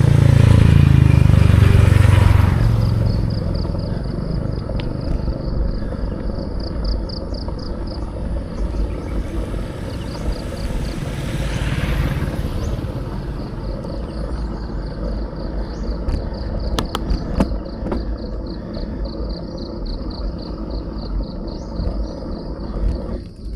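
A motor vehicle passes close by in the first couple of seconds, and a fainter one swells and fades around the middle. Under it a steady low wind and road rumble runs on, and from about three seconds in a high, rapidly pulsing insect trill, like crickets.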